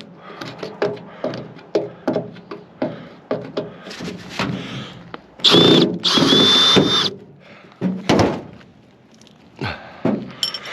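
Power drill-driver whirring in two short runs a little past halfway, with a steady high whine, set among a run of clicks and knocks from handling a microwave oven's metal parts.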